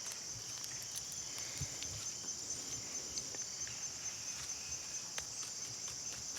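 Steady high-pitched chorus of insects, with a few faint scattered clicks.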